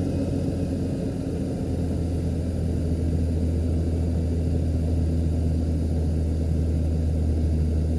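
Toyota Land Cruiser 80 Series engine idling steadily just after a cold start.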